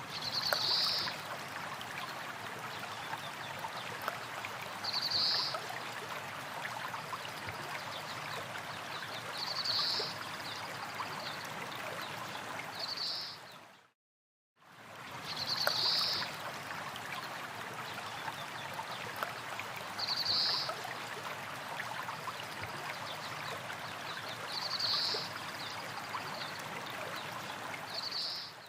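Steady running water like a small stream, with a short high-pitched chirp about every four seconds. The sound cuts out briefly about halfway through, then the same stretch repeats.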